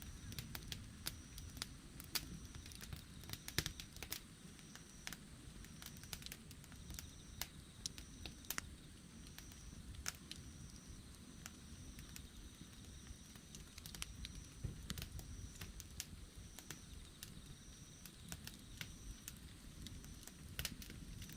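Campfire burning, with irregular sharp crackles and pops over a low rumble of the flames. A faint high chirp repeats evenly in the background.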